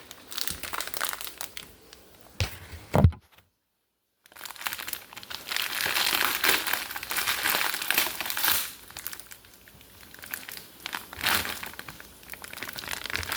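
Crinkling and rustling of packaging being handled, in uneven bursts. There is a sharp knock about three seconds in, then the sound drops out completely for about a second before the crinkling resumes.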